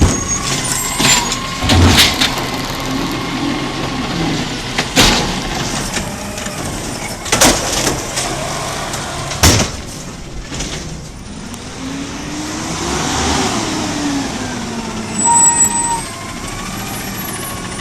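Garbage truck engine running, with four sharp bangs spread over the first ten seconds and the engine revving up and back down about two-thirds of the way through.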